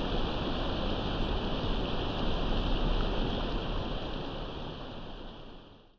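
Fireplace crackling and hissing in a dense, steady texture, fading out to silence over the last two seconds.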